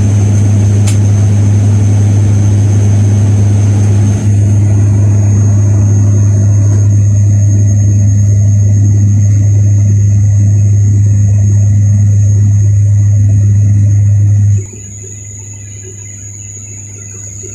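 Loud, steady low engine drone heard from inside a vehicle; about three-quarters of the way through it drops off sharply to a much quieter background hum.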